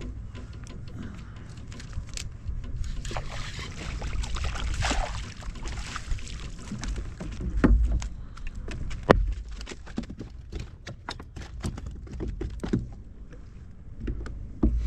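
Wind rumbling on the microphone in a fishing kayak, with scattered clicks and knocks of gear being handled and a hissing rush about four to six seconds in.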